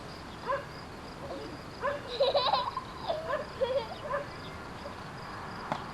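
Young children laughing and squealing in short, high-pitched sounds that bend up and down in pitch, with a sharp click just before the end.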